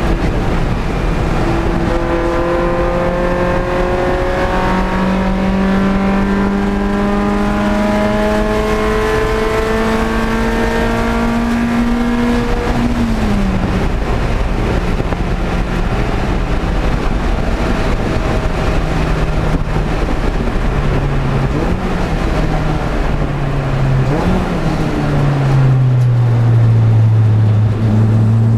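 Honda Prelude's H22 2.2-litre four-cylinder engine under hard acceleration, its note climbing steadily for about ten seconds. It then drops sharply as the driver lifts and runs at lower revs, rising and falling a little. A deep steady drone takes over for the last few seconds.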